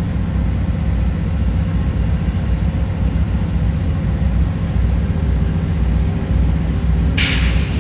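Amtrak Southwest Chief passenger train passing, a loud, steady low rumble with faint steady engine tones. A brief hiss comes near the end.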